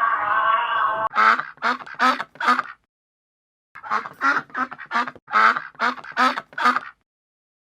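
Duck quacking: a quick run of short quacks, a pause of about a second, then a longer run of quacks. A drawn-out wavering sound carries over from before and ends about a second in.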